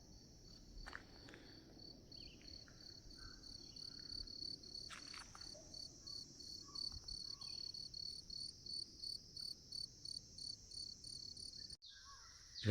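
Faint insect chirping: a steady high-pitched trill with a regular pulsing chirp about three times a second.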